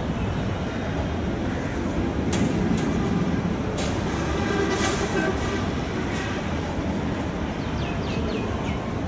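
Chattala Express passenger train rolling along the track, a steady rumble of its coaches' wheels on the rails with a few sharp clicks.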